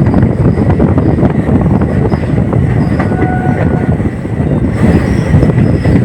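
Indian Railways express passenger train running along the line, heard from on board: a loud, steady rumble of the coaches' wheels on the rails. A brief faint tone sounds about three seconds in.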